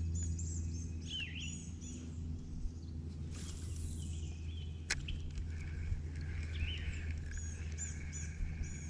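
Small birds chirping, short high calls repeated in clusters near the start and again near the end, over a steady low hum. A brief hiss comes about three and a half seconds in and a sharp click about five seconds in.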